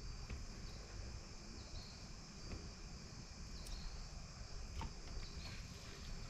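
Faint, steady high-pitched chirring of insects, with a low rumble underneath and a couple of soft clicks about four and five seconds in.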